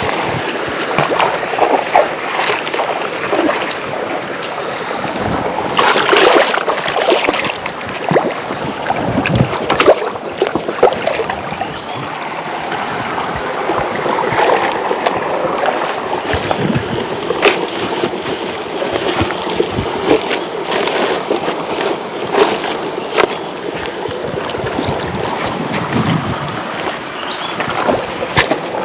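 River water rushing, with irregular splashes and sloshes throughout.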